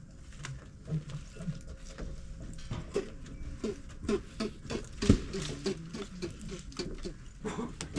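Irregular knocks and clicks of handling and footsteps, with a sharper knock about five seconds in.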